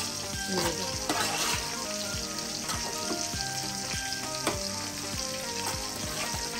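Tomato-and-curd masala sizzling in a large aluminium pot on the gas flame, a steel spoon stirring and scraping through it.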